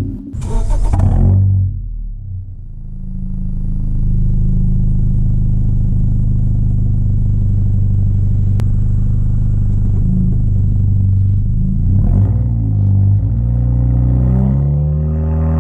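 2016 Honda Civic LX's K20C2 2.0 L four-cylinder running through a Flowmaster dbx pipe fitted in place of the resonator. Engine speed drops away in the first second or two, holds steady for several seconds, then rises and falls again near the end.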